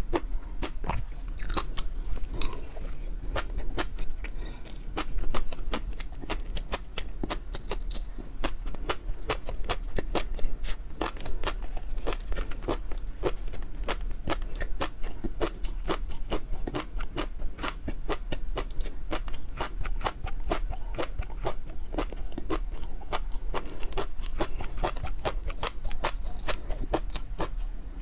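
Close-miked chewing of food: a dense, continuous run of small crunchy and wet clicks.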